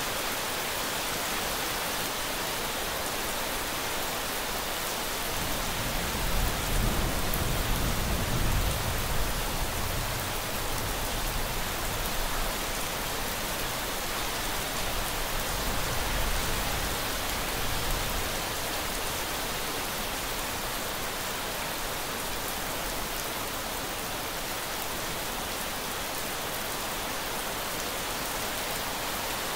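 Steady rain, a dense even hiss. About six seconds in, a low rumble of distant thunder swells and fades away over roughly ten seconds.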